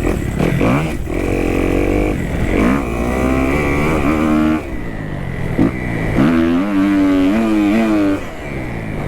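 2018 Kawasaki KX250F single-cylinder four-stroke dirt bike engine revving hard under throttle, its pitch climbing and falling as the rider works through the gears. It drops off briefly about halfway through, revs up high again, and falls away near the end.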